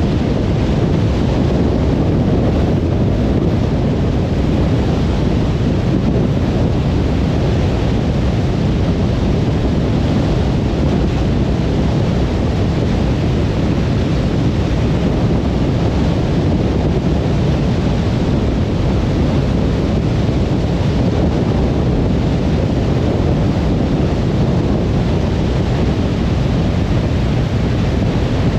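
Steady road noise of a car cruising on a motorway: an even, deep rumble of tyres and wind with no change in pitch or level.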